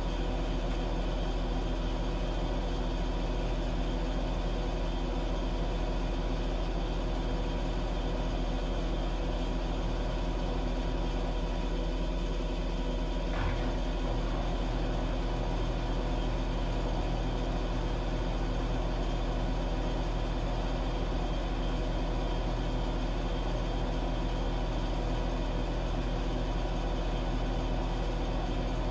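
Washing machine running, a steady low mechanical hum with several constant tones. A single brief click about halfway through.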